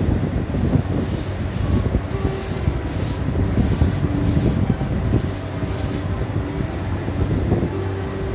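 JR East E235 series electric train departing a station: a steady low drone and motor tones over wheel-on-rail noise, with hissing that comes and goes.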